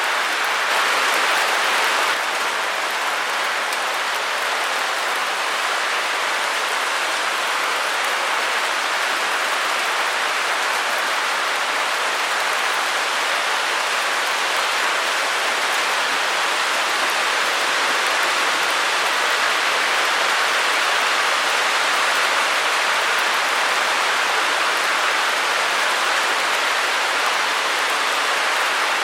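Continuous white noise: a steady, even hiss with little bass, dipping slightly in level about two seconds in.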